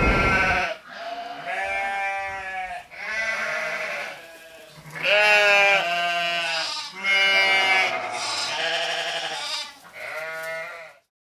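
Livestock bleating: about seven long, wavering bleats one after another, some overlapping. A rushing noise ends within the first second.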